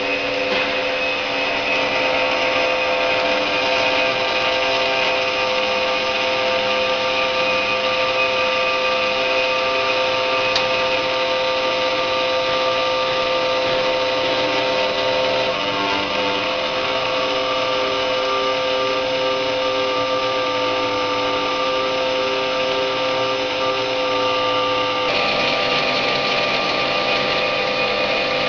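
CNC router-engraver running: a steady machine whine made of several held tones. The tones shift slightly about halfway through and change again near the end.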